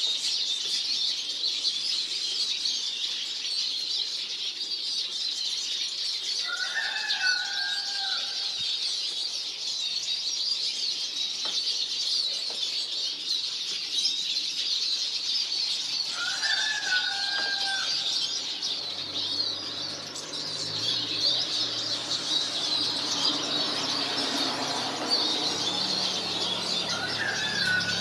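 Small songbirds twittering in a dense, unbroken chatter, with a lower, pitched bird call standing out three times at roughly ten-second intervals. A low hum joins in about two-thirds of the way through.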